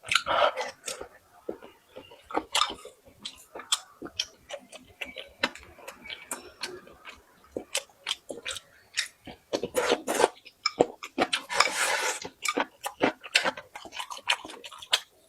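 Close-miked eating: chewing and crunching with many sharp mouth clicks, and a few longer, louder noisy stretches around the middle.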